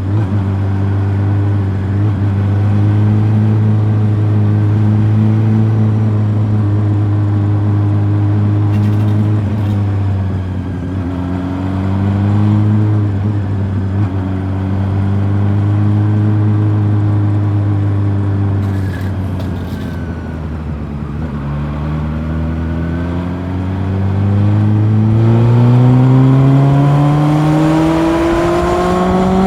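Honda CB400 Super Four's inline-four engine heard from on the bike, running at steady revs with brief dips, easing off about two-thirds of the way through, then revving up steadily under acceleration near the end.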